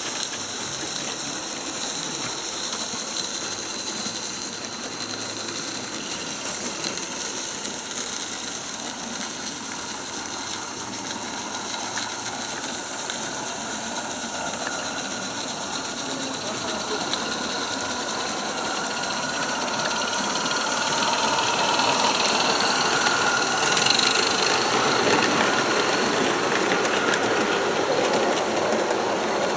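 A small 16mm-scale live-steam model locomotive running on a garden railway, its steady mechanical running noise growing louder as it draws near, loudest about 24 seconds in.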